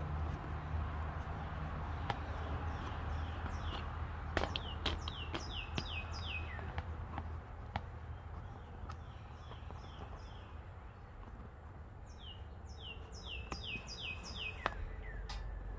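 A songbird singing two runs of quick, high, downslurred chirps, several notes a second, with a pause between the runs. Scattered sharp clicks and a low steady hum that fades out about halfway through sit underneath.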